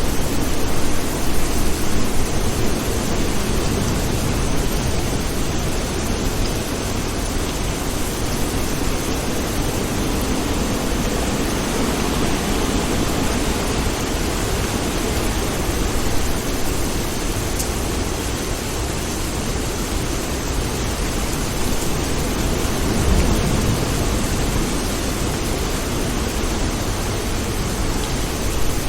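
Steady rain, an even hiss with a strong low rumble underneath, unchanging with no distinct claps.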